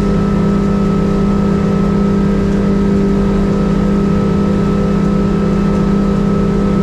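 Mercury 115 outboard running steadily at speed, the boat on plane, with a constant drone and no change in pitch.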